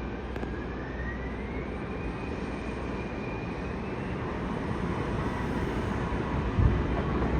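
Jet aircraft engine noise, steady, with a faint whine rising in pitch over the first few seconds and growing louder toward the end. A low thump comes near the end.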